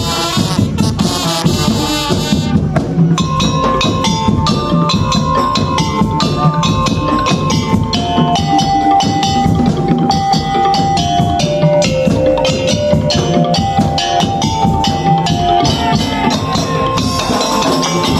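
Madurese tong-tong (ul-daul) ensemble music: fast, dense wooden and drum percussion in a steady rhythm under a single-line melody of held notes.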